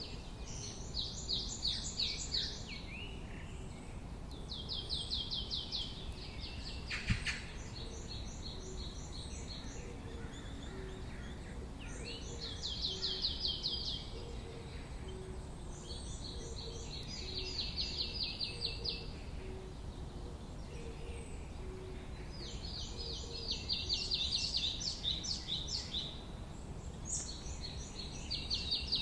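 A songbird singing repeated bursts of rapid, high notes, each phrase lasting one to two seconds and coming every few seconds. A steady low background rumble runs underneath.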